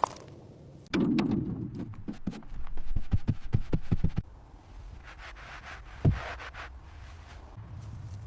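Knocking and thumping: a heavy thud about a second in, then a quick run of about eight sharp knocks, a scraping noise, and one more sharp knock about six seconds in.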